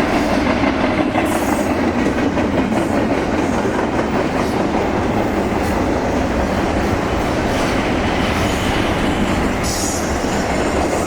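A train passing close by: a steady, loud rumble of wheels on rail with a clickety-clack over the joints, and brief high-pitched flares about a second in and near the end.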